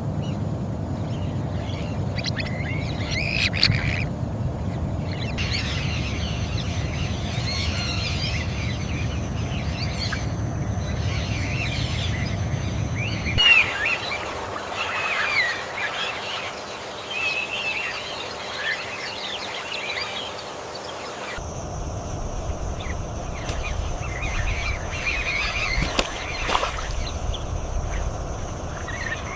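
Tropical wetland ambience: many overlapping bird calls and chirps over a steady low rumble. The background changes abruptly twice, at about the middle and again about two-thirds through, as if separate recordings were spliced together.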